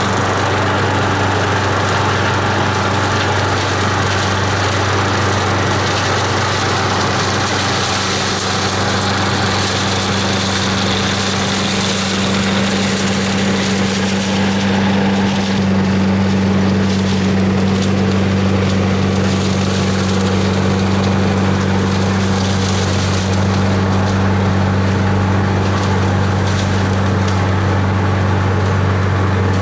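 Parker Scavenger SV89301CSP engine-driven garden vacuum running steadily, its engine drone under the rush of the fan. Leaves and debris being drawn in make scattered crackles, mostly in the second half.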